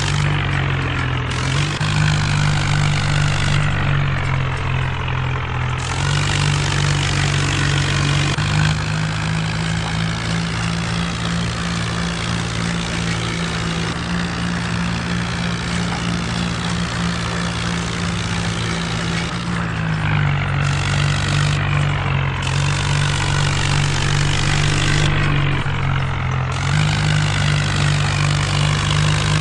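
Mahindra Arjun tractor's diesel engine running loud and steady, its drone shifting slightly up and down in pitch several times as the engine speed changes.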